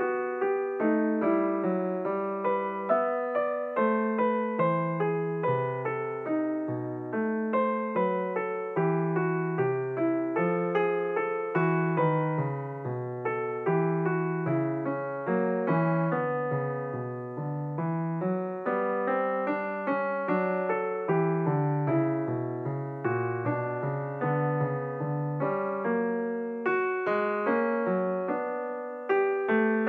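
Background piano music: a solo piano playing a steady stream of single, decaying notes in a gentle melody.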